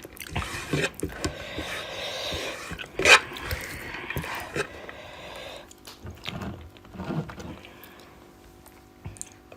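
Close-up eating sounds: chewing and mouth noises with small clicks and crackles, loudest in the first half and fading toward the end.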